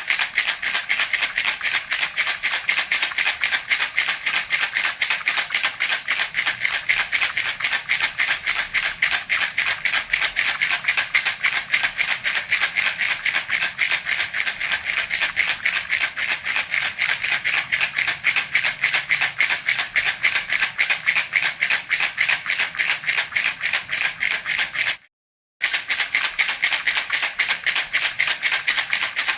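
Baby rattle (jhunjhuna) shaken in a fast, even rhythm, its beads clattering in a steady stream of strokes. It breaks off for about half a second near the end, then carries on.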